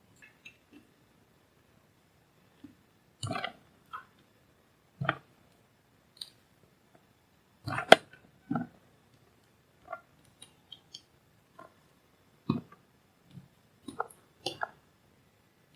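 Sparse small clicks and taps of tools and a circuit board being handled on a repair bench, about a dozen at irregular intervals, the loudest about eight seconds in.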